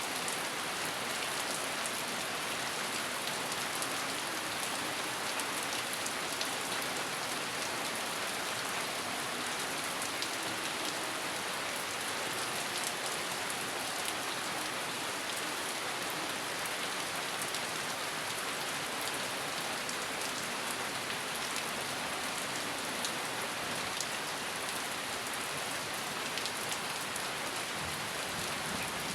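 Steady rain falling and pattering on surfaces, with fine scattered drop ticks and no thunder.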